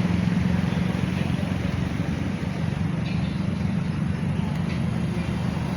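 Motor vehicle engine running steadily, a low hum over outdoor road noise.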